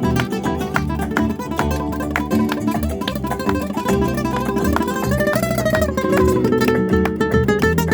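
Acoustic guitar playing flamenco, a run of quick plucked notes and strums, with one note sliding up and back down about five seconds in.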